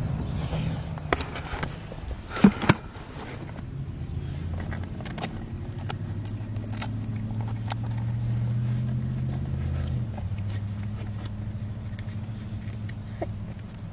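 A car engine running steadily with a low hum that grows a little stronger in the middle, then eases. A few sharp clicks and knocks come in the first three seconds.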